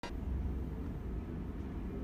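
Steady low rumble of a car driving, engine and road noise without change.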